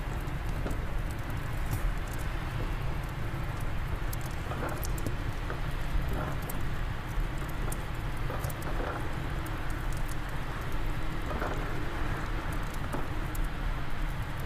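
Fireplace fire crackling, with frequent small sharp pops, over a steady low rumble of wind.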